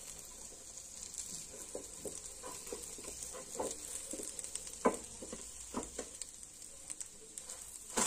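Egg and bread frying in oil in a shallow pan, a steady sizzle, with a few short scrapes and taps of a steel spatula as it is worked under the bread omelette and flipped; the sharpest knock comes about five seconds in.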